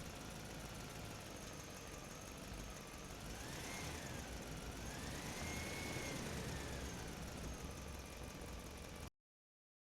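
RC toy vehicle running, a steady engine-like hum with a whine that rises and falls twice around the middle. The sound cuts off abruptly about nine seconds in.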